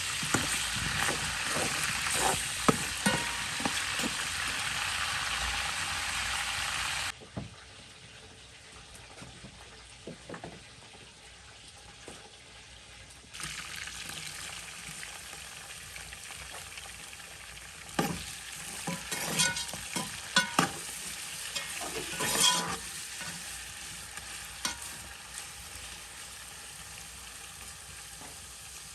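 Food sizzling as it fries in a pan, with scrapes and knocks of a stirring utensil. The sizzle drops suddenly about seven seconds in and returns about six seconds later; the scraping is busiest in the second half.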